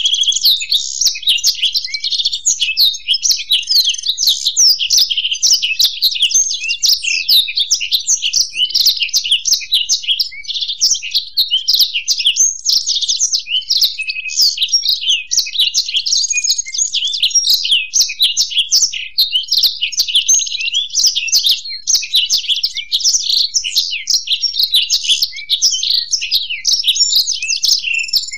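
Black-throated canary and European goldfinch singing together in a continuous, dense run of rapid high twittering and trills, with no pause.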